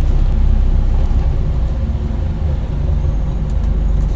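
Scania N230UD Enviro 400 double-decker bus running, its engine and drivetrain giving a steady low rumble.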